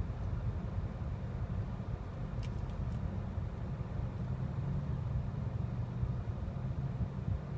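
Freight train rolling past with a steady low rumble. A few faint clicks come about a third of the way in.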